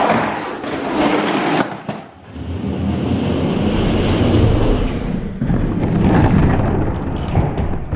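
Die-cast toy monster trucks rolling down a racing track: a continuous rumbling rattle of toy wheels on the track. About two seconds in, the hissing top of the sound drops away and a heavier low rumble carries on.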